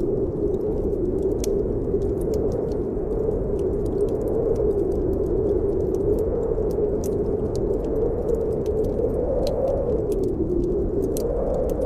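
Snowstorm wind blowing steadily, its pitch slowly swaying up and down, with scattered faint crackles of a fireplace fire.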